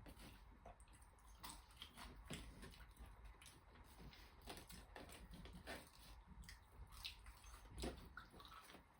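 Faint chewing and wet mouth clicks of people eating a cheeseburger and chips, with a slightly louder bump near the end.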